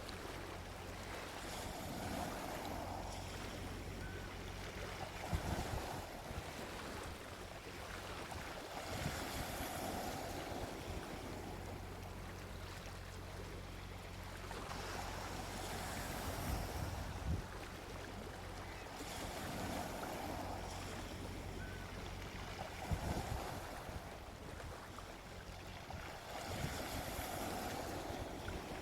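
Gentle sea waves washing onto a beach, each wash swelling and fading about every six or seven seconds, over a steady low rumble.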